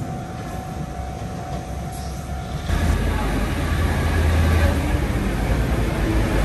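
Taiwan Railway DR2100/DR2400-series diesel railcar running, a steady low rumble that gets suddenly louder and fuller a little under three seconds in.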